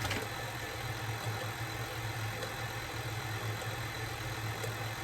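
Electric mixer motor running steadily as it beats thick brownie batter, a constant low hum.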